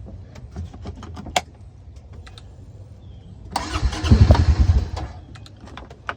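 A few clicks and small knocks, then about three and a half seconds in the Honda Pioneer 700's single-cylinder engine cranks on its starter, run from a jump starter, for about a second and a half and stops without catching. A sharp click follows near the end.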